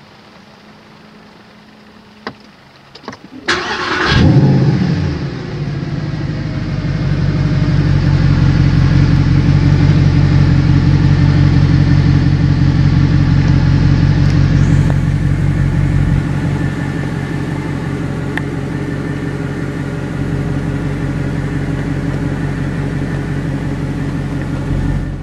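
Mercedes-Benz SLS AMG 6.2-litre V8 starting up: a couple of clicks, a short crank, then the engine catches with a loud flare. It settles into a steady fast idle, which drops slightly about two-thirds of the way through.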